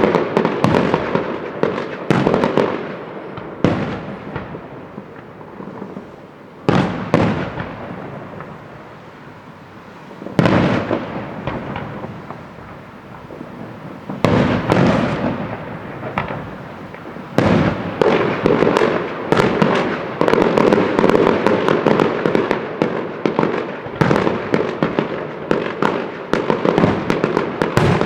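Fireworks display: sharp bangs of bursting shells every few seconds, each trailing off into crackling. From a little past halfway the bursts run together into a near-continuous dense crackle.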